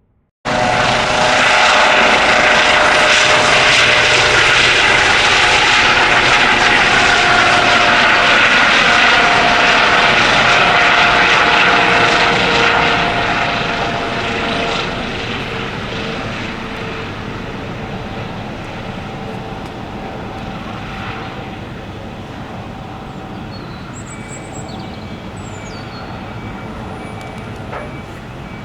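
A turbine aircraft passing close by: loud, steady engine noise with whining tones that slide down in pitch about halfway through, then the sound fades as the aircraft moves away.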